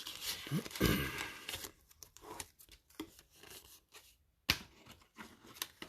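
Crinkling and rustling of booster-pack wrappers and envelopes being handled, loudest in the first two seconds, with one sharp click about four and a half seconds in.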